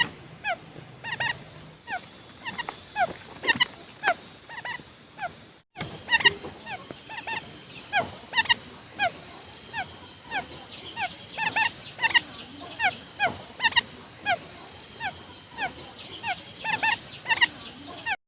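Quail calling: a run of short, down-slurred whistled notes, several a second and overlapping as if from more than one bird. There is a brief gap about six seconds in, and a faint high steady hiss or buzz runs beneath the calls after it.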